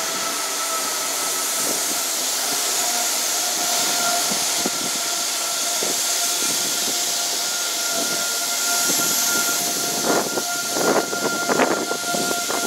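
High Speed Train's Class 43 power car idling at the platform: a steady hiss and drone with a constant whine. A few short knocks come near the end.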